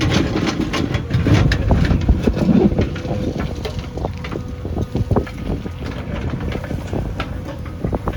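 JCB backhoe loader's diesel engine running under load, with frequent short knocks and clanks over a steady low rumble.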